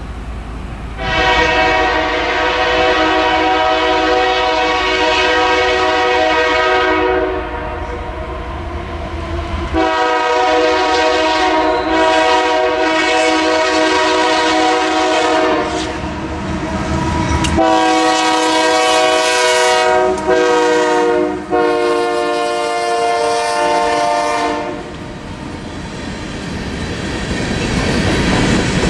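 Freight locomotive's multi-chime air horn sounding four blasts, the first two long, over the low rumble of the approaching train. The horn stops near the end, and the rumble and wheel noise of the passing train grow louder.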